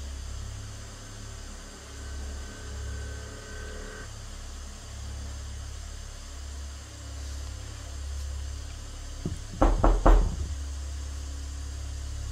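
A quick cluster of four or five sharp knocks about ten seconds in, loud and with a low thud, over a steady low hum.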